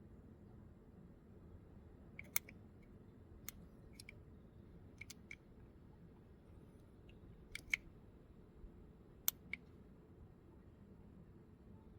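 Sharp clicks at irregular intervals, about nine in all, starting about two seconds in, over a faint low hum.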